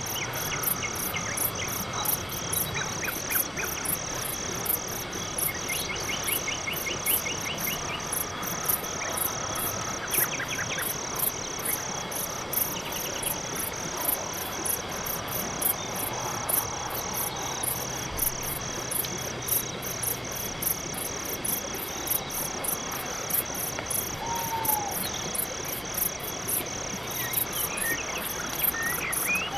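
Night forest ambience: crickets chirping in a fast, even, unbroken pulse, with a few brief bird trills and short calls over it.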